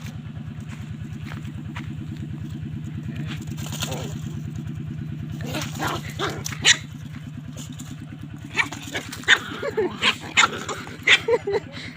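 Dogs quarrelling: sharp barks and snarls begin about halfway through and come thick and fast near the end. An engine runs steadily underneath.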